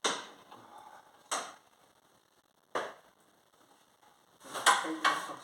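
Metal hand tools clinking and knocking together as sockets and spanners are sorted through: three separate knocks a second or so apart, then a quicker clatter of several near the end.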